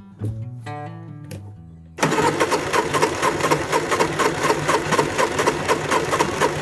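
Honda EU3000iS generator engine cranking over steadily about two seconds in, a fast, even rhythmic chugging that never catches and runs up: a failed start on an engine that the owner thinks is starved of fuel by a gummed-up carburettor. Soft guitar music plays before the cranking begins.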